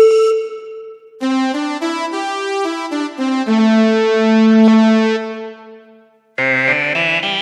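Yamaha PSR-SX arranger keyboard playing its sampled voices: a short phrase of notes and chords in a piano-type voice that rings out and fades. After a brief pause, a different, brighter voice starts playing about six seconds in.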